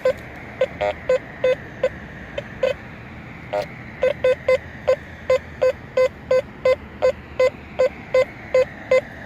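Teknetics T2SE metal detector with a Sharpshooter coil giving short repeated beeps over a target among iron trash. They come sparse and irregular at first, then as a steady run of about three beeps a second from about four seconds in. The target reads somewhat high, the response of a non-ferrous target.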